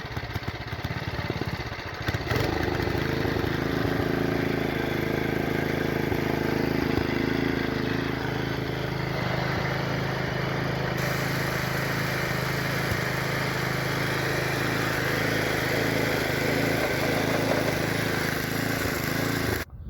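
Old Craftsman rototiller's small gasoline engine running after repair, fired through a battery-powered ignition box in place of its broken magneto. It runs unevenly for about two seconds, then settles into a steady run until it cuts off suddenly near the end.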